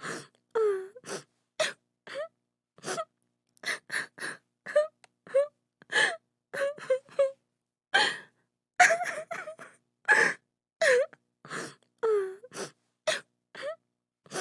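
A woman sobbing: short, broken cries and gasping breaths, a couple a second, the pitch of each sob bending up and down, with brief silences between.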